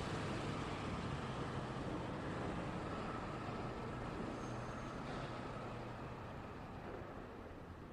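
Road traffic: a steady rush of engine and tyre noise from passing vehicles, slowly fading in the second half. A brief high squeak comes about four and a half seconds in.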